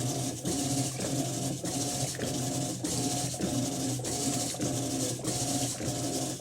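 Electrolux 12 kg top-loading washing machine running through its cycle: a steady motor hum with water hiss and a pattern that repeats a bit under twice a second.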